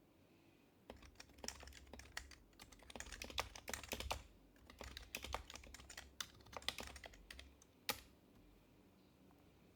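Typing on an HHKB Professional Hybrid Type-S keyboard with quieted Topre keys: quick runs of soft keystrokes starting about a second in, stopping with one sharper keystroke near the end.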